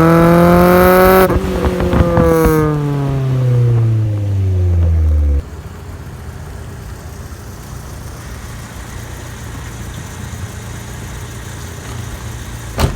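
Honda Civic hatchback's engine through an HKS Hi-Power exhaust, revving up for about a second, then the revs fall steadily for about four seconds as it eases off. The sound then drops suddenly to a much quieter steady low running, with one sharp click near the end.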